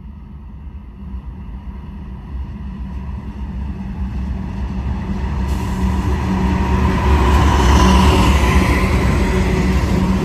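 BNSF freight train approaching: a low diesel locomotive rumble with wheel and rail noise, growing steadily louder until about eight seconds in, then holding.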